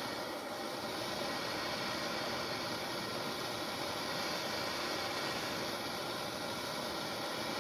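Propane torch burning with a steady hissing rush, heating a cast-iron engine block.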